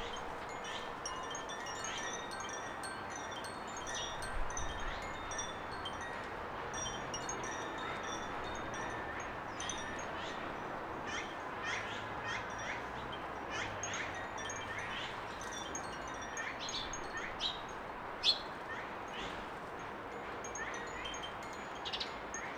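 Garden birds chirping and calling, many short high notes and quick falling chirps, some of them clear and ringing, over a steady background hiss.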